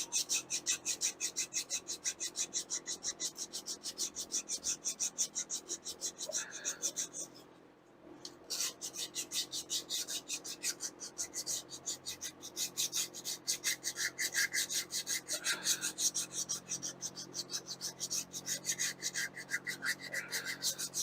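Emery cloth rubbed by hand against a rusty metal surface on the engine, in quick even back-and-forth strokes about four a second, with a short pause about eight seconds in, to clean off rust.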